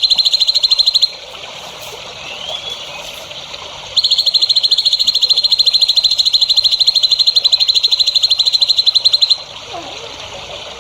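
A high-pitched, rapidly pulsed animal trill at about ten pulses a second, loud and very even. It breaks off about a second in and starts again about four seconds in for another five seconds or so. In the gaps there is a soft running-water hiss and a faint chirp.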